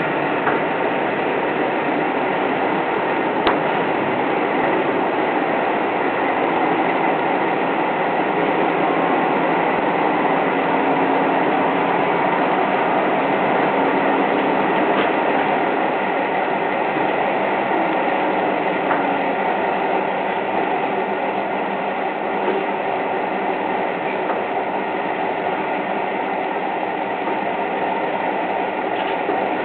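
Train running steadily along the line, heard from inside the driver's cab: an even rumble and hiss of wheels on the rails. A single sharp click comes about three and a half seconds in.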